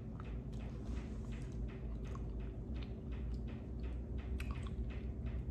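A person chewing a mouthful of soft loaded baked potato, with small wet mouth clicks about two or three times a second over a low steady room hum.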